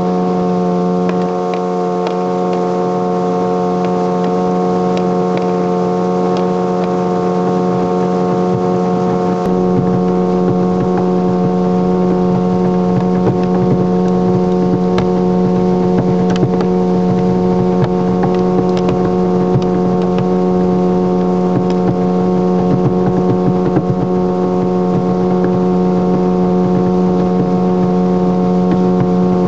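The engine of a ClarkCraft Twin Escape kit boat running under way at a constant speed: a steady droning hum whose pitch does not change.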